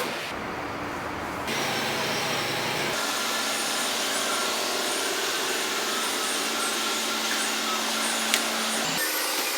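A power tool running steadily, a tool step in a truck tyre puncture repair. It gets louder about a second and a half in.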